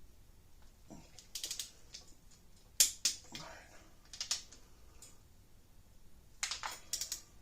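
Click-type torque wrench ratcheting on a cylinder head stud, in short runs of quick metallic clicks with a sharper single click about three seconds in.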